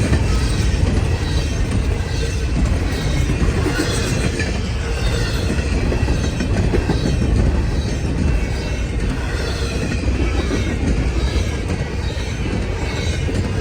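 Freight cars of a long CN freight train rolling past, their wheels clattering steadily on the rails.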